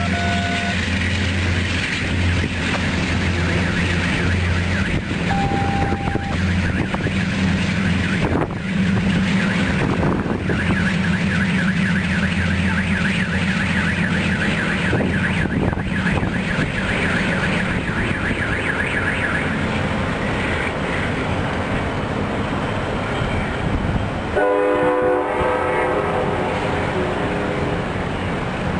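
Diesel passenger locomotive running with a steady low drone as the train pulls away down the track. About twenty-four seconds in, a train horn sounds briefly, from the next train approaching.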